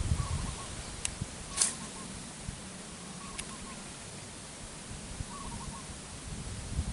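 A bird calling: short runs of quick notes repeat every second or two, over a low rumble, with a couple of sharp clicks about a second and a second and a half in.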